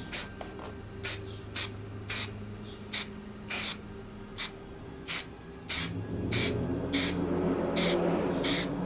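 A series of short, sharp hissing bursts, roughly two a second and irregular, growing louder and closer together from about six seconds in.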